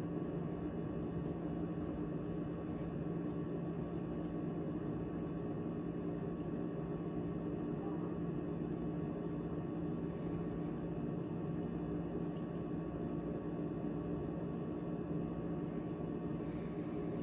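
GE GTH18XCTZRBB refrigerator running after its defrost (heat) cycle: a steady machine hum with a few fixed tones over a low rushing noise.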